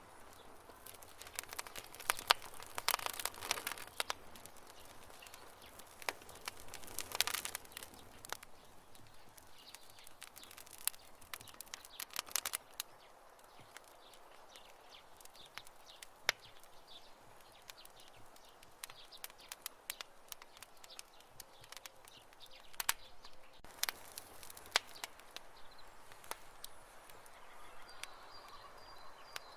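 Campfire crackling: wood burning with irregular sharp pops and snaps, some coming in quick clusters, over a faint steady hiss.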